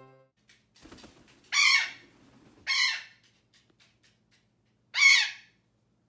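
A bird giving three loud calls, each about half a second long: two close together and a third a couple of seconds later.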